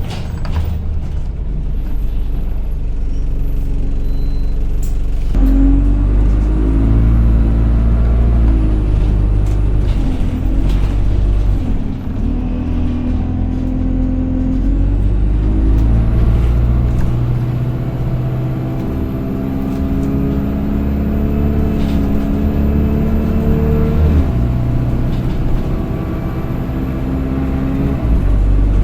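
Single-decker bus's engine and gearbox, heard from on board, pulling away and accelerating. A whining pitch climbs and drops back at each gear change, several times over. This is the loud 'hoover' whine that enthusiasts note on this bus.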